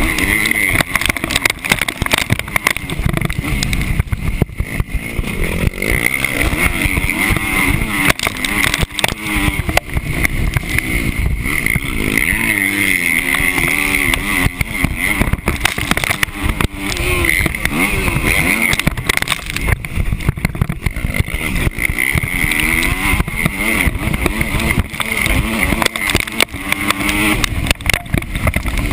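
Motocross bike engine heard from a camera mounted on the bike, revving up and falling back again and again as the rider works the throttle and gears around the track. Knocks and wind buffeting on the microphone run through it.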